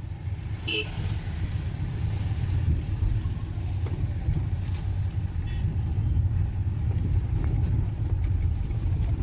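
Car driving along a road: a steady low rumble of engine and tyres, with a couple of faint ticks.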